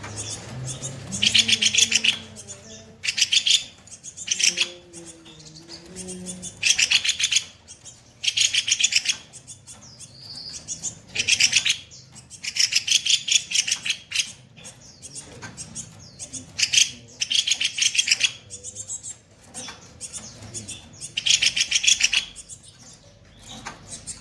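Kopi-kopi bird singing harsh, rapid chattering phrases: bursts of fast-repeated notes, each about a second long, coming again every one to two seconds.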